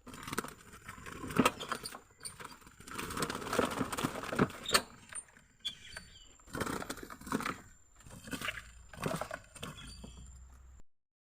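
Irregular close-up rustling and clattering handling noise with many short sharp clicks.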